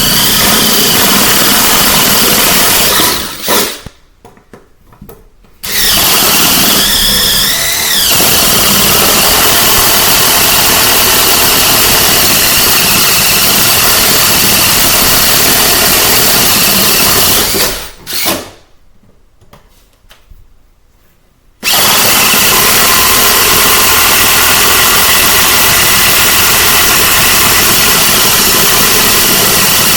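Power drill cutting a vent hole through the flooring, running hard and loud in long stretches. It stops about three seconds in and again about eighteen seconds in, starting up again each time, and its pitch wavers briefly under load about seven seconds in.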